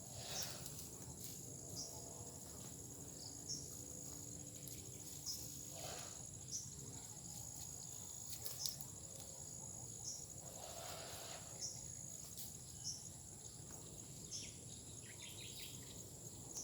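Faint, steady, high-pitched insect chorus, with short high chirps repeating every second or two.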